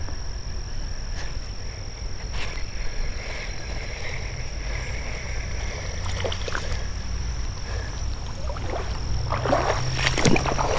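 Creek-side evening chorus: a steady high-pitched insect drone with frog calls, over a low rumble. Near the end come a few sharp clicks and splashy rustling, like wading steps in the water.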